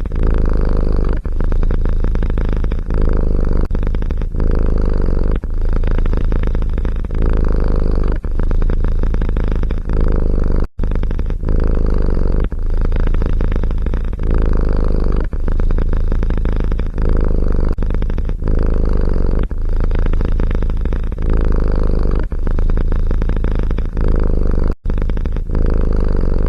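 A domestic cat purring loudly and close up, in a steady rhythm of about one breath cycle every second or so. The purr cuts out briefly twice, near the middle and near the end.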